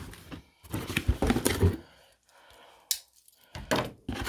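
A parcel of packaging being opened by hand: irregular rustling of cardboard and wrapping, then a few sharp clicks and knocks near the end.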